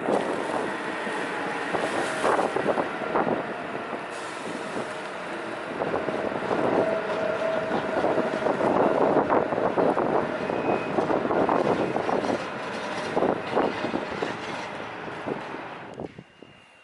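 New York City subway train running past on the tracks: a steady rumble with many short clicks from the wheels, and a held tone in the middle. It falls away sharply near the end.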